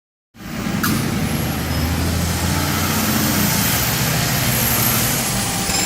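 Garbage truck engine running steadily, with a single sharp click about a second in.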